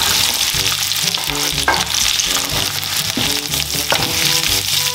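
Browned pork belly cubes sizzling in hot oil as they are tipped back into a nonstick frying pan of sautéed garlic and onion and stirred with a wooden spatula. Two sharp knocks cut through the steady sizzle, one a little under two seconds in and one near the end.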